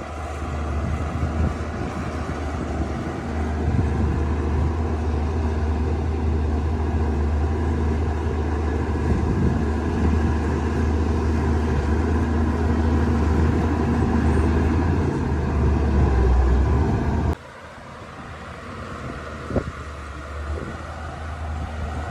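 Shantui DH17-C2 bulldozer's diesel engine working, a deep steady drone that grows louder about three seconds in. Near the end it drops suddenly to a quieter engine drone.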